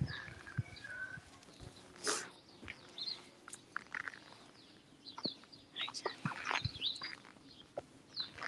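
Several birds chirping and singing, with many short overlapping calls, plus a few light knocks and a brief noisy burst about two seconds in.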